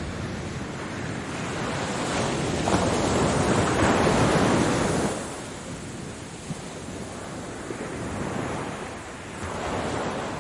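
Ocean waves washing in. One wave builds and breaks about a third of the way in, then dies away sharply around halfway, and a smaller one swells near the end.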